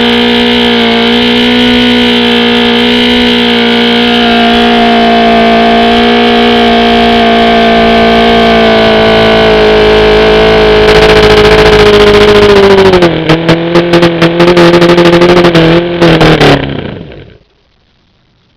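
OMC 125 hp V-4 two-stroke outboard running steadily at speed on a test dyno. About 13 seconds in its pitch drops a little and it runs unevenly, the sound dipping in and out. It then stops about three seconds later.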